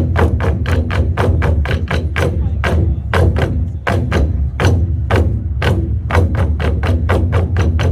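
Ensemble of Korean barrel drums (buk) played with sticks in a fast, driving rhythm of sharp strikes, about six a second, over a steady low boom. The strikes thin out briefly twice around the middle, then pick back up.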